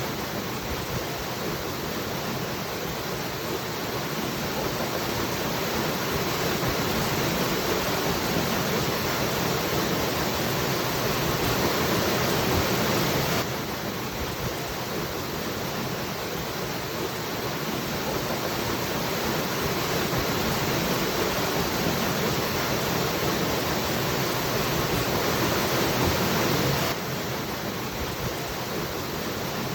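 Waterfall rushing in a steady roar of falling water, with no other sounds. The level swells slowly and drops suddenly about every 13 seconds.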